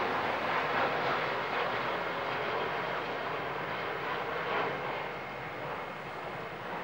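Jet noise from a departing Boeing 737-800's twin CFM56-7B turbofan engines at takeoff thrust, a steady rushing sound that slowly fades as the airliner climbs away.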